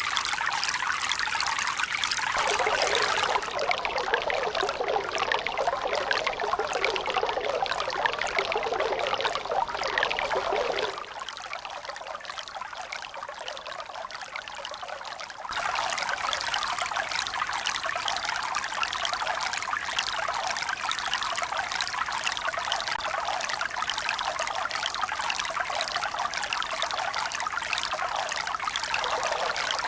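Running water trickling and pouring steadily. The sound changes abruptly in tone and loudness a few times: it turns brighter about two seconds in, drops quieter and duller near the middle, then comes back louder a few seconds later.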